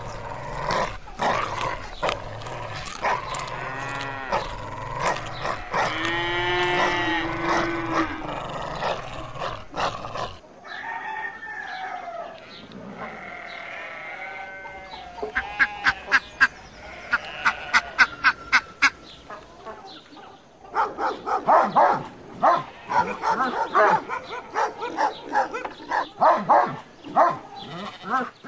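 Dogs vocalizing in a string of short clips: drawn-out whining calls that bend up and down in pitch in the first third, then German shepherds barking in runs of sharp barks, about two a second, through the rest.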